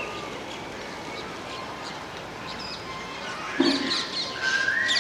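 Parrots chirping and calling: scattered short high calls that grow busier from about three and a half seconds in, with a longer whistled note near the end.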